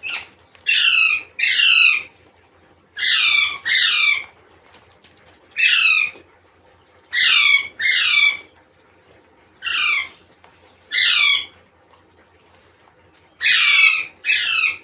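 Parrot giving about a dozen harsh squawking calls, each short and falling in pitch, mostly in quick pairs with brief pauses between.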